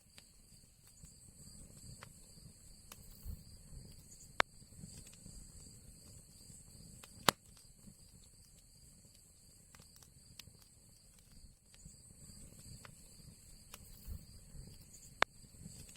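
Wood fire burning in an old chimney fireplace: soft scattered crackling ticks, with three sharp louder pops about four seconds in, about seven seconds in, and near the end.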